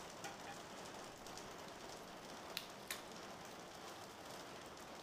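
Steady rain falling, with two sharp clicks a little past halfway.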